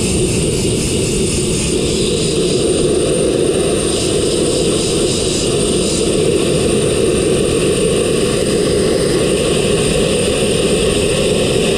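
Abrasive blasting with fine crushed glass: the steady, unbroken rushing hiss of the blast nozzle over the drone of the air compressor.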